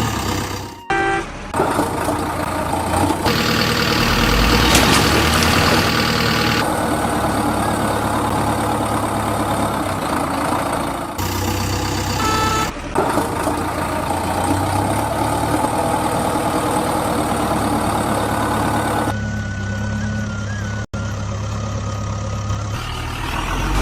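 Tractor-like engine sound running steadily, broken up by abrupt edits where the sound jumps from one segment to the next.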